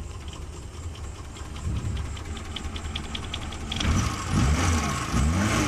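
Suzuki Carry's four-cylinder engine running just after all four spark plugs were replaced to cure a misfire, with a fast light ticking. From about four seconds in it gets louder, with a few short dips and rises in pitch.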